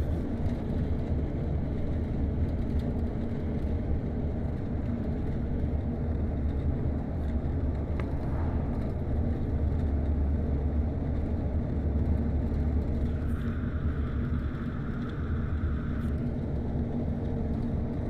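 Steady low rumble, with a faint higher hum that comes in for a few seconds about two-thirds of the way through.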